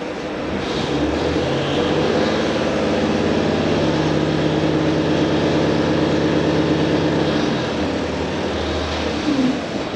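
Running sound inside a JR Hokkaido H100 (DECMO) diesel-electric railcar. A steady, many-toned hum from its engine and drive sits over the rumble of the wheels and drops away about three-quarters of the way through.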